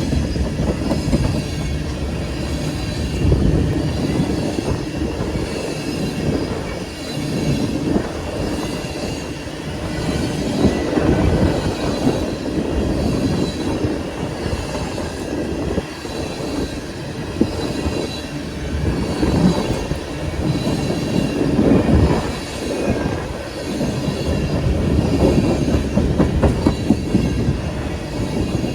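Freight train rolling past: a steady rumble of cars with wheels clicking over rail joints and a faint, high wheel squeal.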